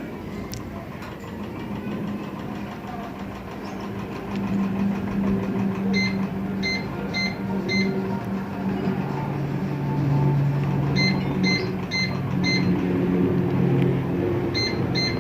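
Mini-split air conditioner beeping in runs of short high beeps, about two a second, three times, as the remote's buttons are pressed over and over, over the steady low hum of the unit running.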